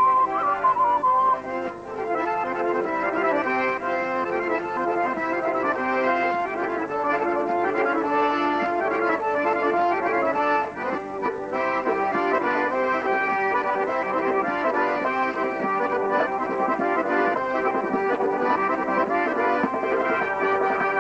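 Traditional Caucasian dance music played on accordion: a quick tune over sustained chords. A single wavering high note sounds in the first moment, then the full texture fills in about two seconds in.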